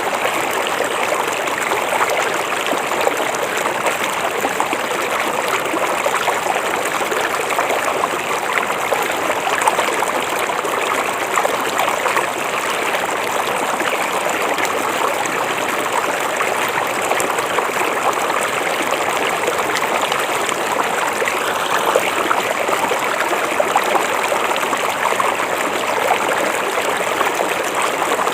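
River water flowing over rocks: a steady, even babbling rush.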